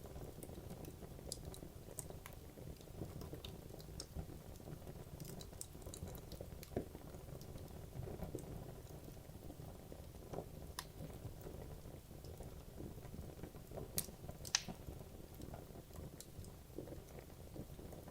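Wood logs burning in a fireplace: a steady low rush of flame with scattered sharp crackles and pops, the loudest two about fourteen seconds in.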